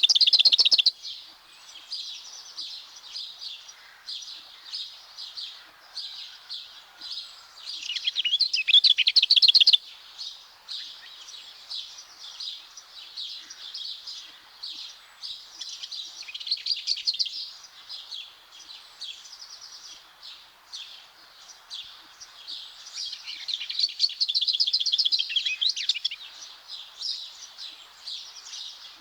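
Lesser whitethroat singing: quieter scratchy chattering broken by loud fast rattling trills, near the start, about eight seconds in and again about twenty-four seconds in.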